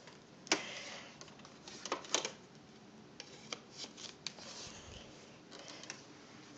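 Hard plastic vacuum attachments being handled and fitted: sharp clicks and clatter as the extension wand is put on, two louder snaps then a run of smaller clicks and rustling.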